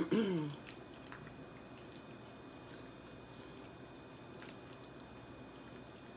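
Quiet eating sounds: soft chewing with a few faint light clicks of a fork in a plastic container of macaroni and cheese. A short voiced 'mm'-like sound comes right at the start.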